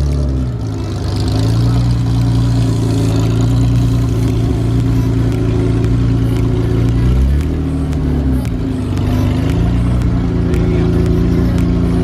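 A car engine running at a steady pitch, with the note dipping and rising again briefly about two thirds of the way through.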